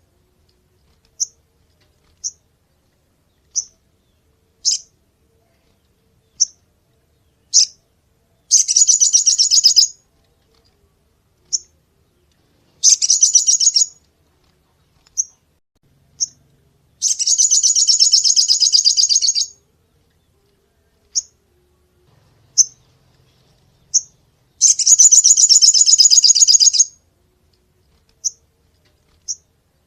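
Sogon (crimson sunbird) singing: single high chips every second or so, broken by four fast, shrill rattling trills of about two seconds each.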